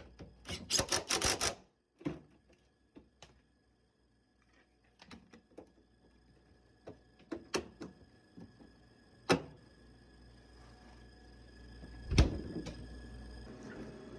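Refrigerator doors being opened and swinging shut on their own: scattered light clicks and knocks, with louder thumps about nine and twelve seconds in. A low steady hum follows the second thump.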